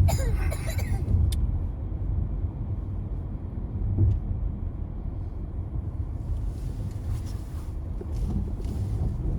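Low, steady rumble of a car driving slowly, heard from inside the cabin, with a light knock about four seconds in.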